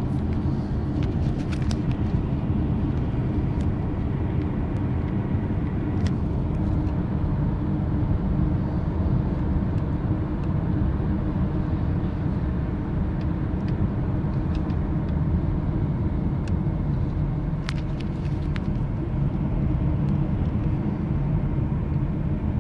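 Steady road and drivetrain rumble inside a moving Subaru Legacy Outback's cabin, with a faint thin whistle at times. The uploader traces this car's brief whistle above 70 km/h to a faulty torque converter lockup solenoid in its TR690 chain CVT, caused by non-original CVT fluid or a failed solenoid.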